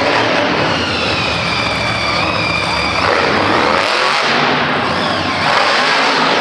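Monster truck engine running hard and revving, loud, with a high whine over it that cuts off about three seconds in.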